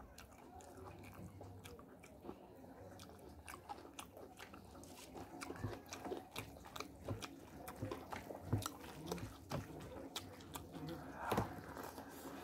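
Close-miked mouth sounds of someone eating rice by hand: wet chewing and lip smacks as a series of short clicks, growing denser from about halfway through, with soft squishes as fingers scoop the rice.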